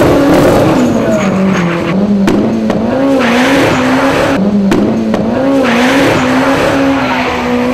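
Drag-racing car's engine revving, its note rising and falling repeatedly. Two bursts of harsher, rushing noise come in, about three seconds in and again near six seconds.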